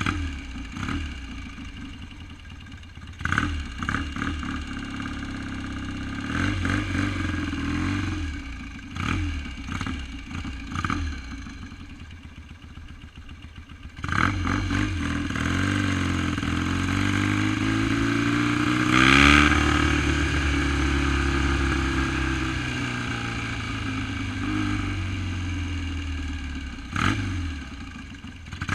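1971 BSA Lightning's 650 cc parallel-twin engine idling with several quick throttle blips. About halfway through it gets suddenly louder, its pitch climbing to a peak, then falling away slowly.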